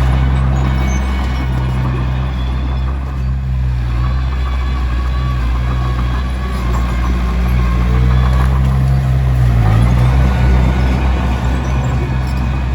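Komatsu D21P bulldozer's diesel engine running steadily under work, with a brief dip in engine pitch about three-quarters of the way through.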